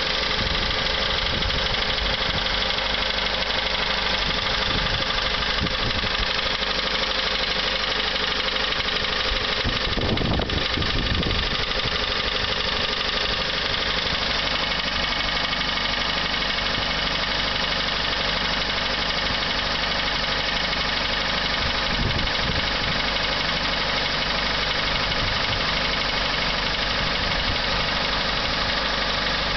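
Toyota Rush engine running steadily with a ticking (kachi-kachi) noise, which the dealer diagnosed as piston slap, the pistons striking the cylinder walls; the owner suspects the tappets or the timing chain instead.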